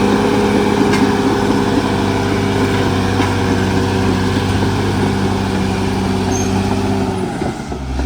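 Caterpillar D6R XL bulldozer's diesel engine running loud and steady under load, its pitch dropping away near the end.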